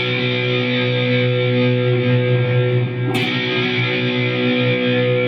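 Electric guitar playing a B minor chord and letting it ring, strummed again about three seconds in.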